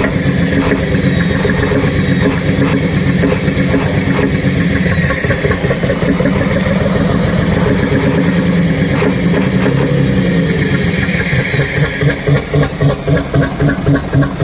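Truck diesel engine running steadily. About twelve seconds in, its sound starts to pulse in an even beat of roughly three a second.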